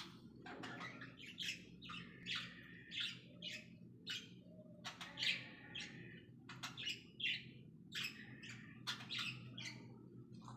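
Cockatiels chirping: a run of short, quick calls, several each second, over a low steady hum.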